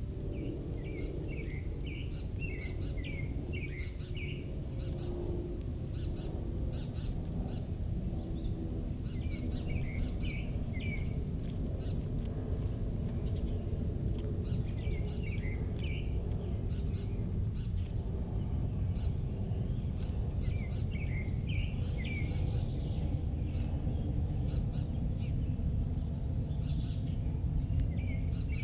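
Small birds chirping in quick clusters every few seconds, over a steady low background rumble.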